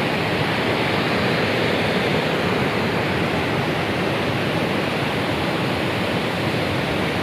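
Waterfall: water falling and splashing in a steady, loud rush with no breaks.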